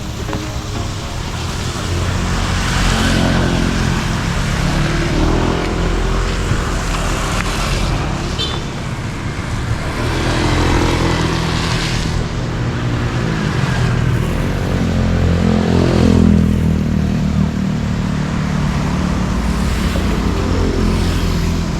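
A motor vehicle's engine running and revving, its pitch rising and falling several times as it speeds up and slows, over a steady rush of wind or road noise.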